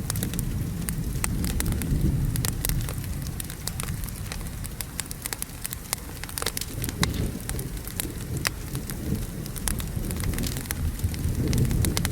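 Wood fire crackling with many sharp, irregular pops over steady rain and a low rolling rumble of thunder. The rumble eases off around the middle and builds again near the end.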